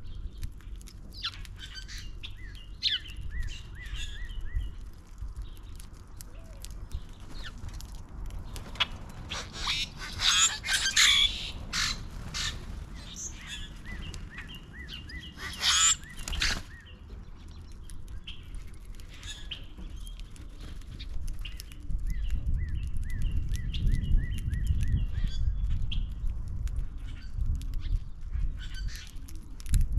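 Wild birds calling at a backyard feeder visited by a flock of common grackles: a run of short repeated chirps, with two louder, harsh, noisy calls about ten and sixteen seconds in, over a low background rumble.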